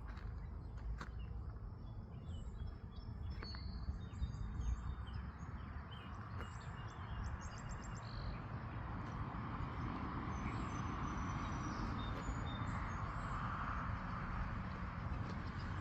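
Small birds chirping and trilling with short, high calls, busiest in the first half, over a steady low background rumble.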